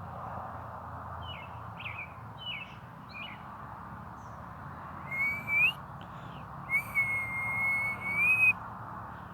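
Birds chirping a few short quick notes over a steady background hiss, then, about halfway through, a series of louder long whistled notes that hold one pitch and lift at the end.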